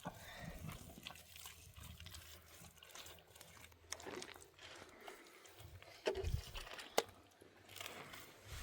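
Scuffs and knocks of footsteps on rocky ground with heavy breathing, a louder scrape about six seconds in and a sharp click a second later.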